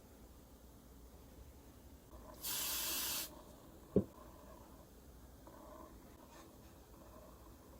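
One short burst from a spray paint can, hissing for under a second, followed about a second later by a single sharp tap.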